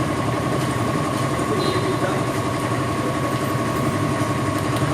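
A steady engine-like drone with a constant high tone, like a motor idling without change.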